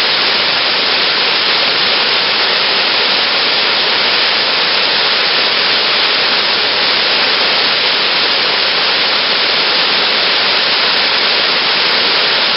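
Waterfall, a steady rush of falling water with no breaks.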